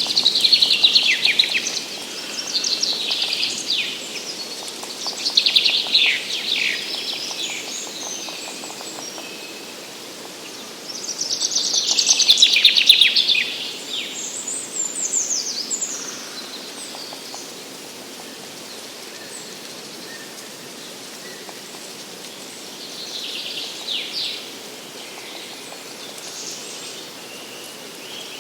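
Songbirds singing: short bright phrases of about two seconds each, falling in pitch, repeated every few seconds with the loudest around the middle, over a steady soft background hiss.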